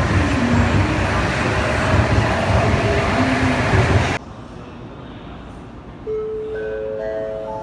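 A Shinkansen train running alongside the platform, a loud steady rumble that cuts off abruptly about four seconds in. From about six seconds a station chime of several notes, each entering higher than the last, plays as the lead-in to a platform arrival announcement.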